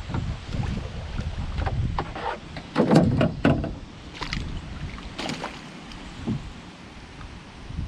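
Knocks and water sounds from a canoe, with a cluster of sharp clunks about three seconds in and a few more after. Wind rumbles on the microphone in the first couple of seconds.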